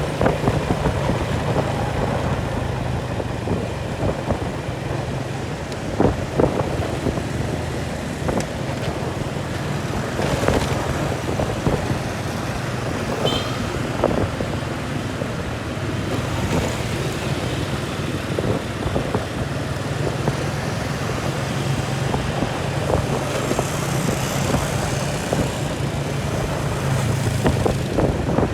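An engine running steadily under way, a constant low drone with scattered knocks and rattles over it.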